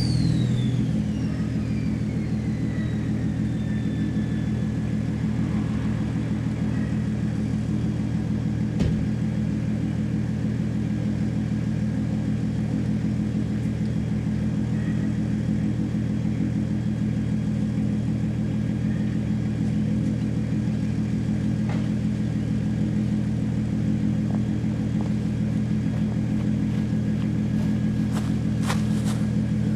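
Nissan GU Patrol's 2.8-litre turbo-diesel straight-six idling steadily through its exhaust, an even low note with no revving. A high whine falls away over the first few seconds.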